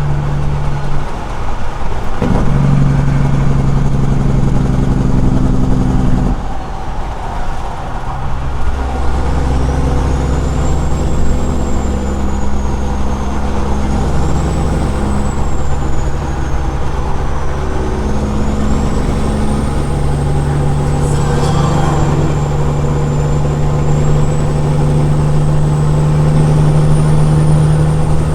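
Caterpillar 6NZ inline-six diesel of a Peterbilt semi truck running loud through straight pipes while driving. The engine note changes pitch and briefly drops away twice, about one second and six seconds in, then runs steady.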